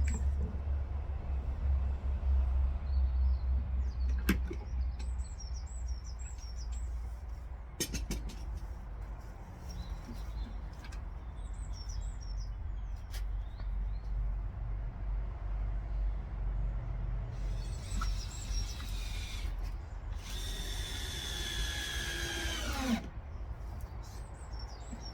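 Power drill working into wood in two short runs near the end; the second run is a whine that winds down in pitch as the trigger is released. A few knocks come earlier, and birds chirp repeatedly in the background.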